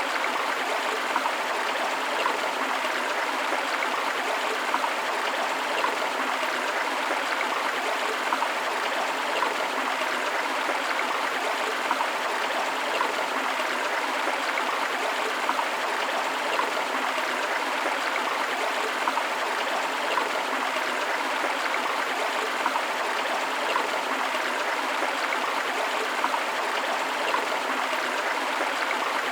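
A river running, with a waterfall blended in: a steady, even rush of flowing water with little deep rumble.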